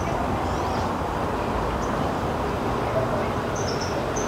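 Outdoor garden ambience: a steady low background din with a few short, high bird chirps, a couple near the start and a pair near the end.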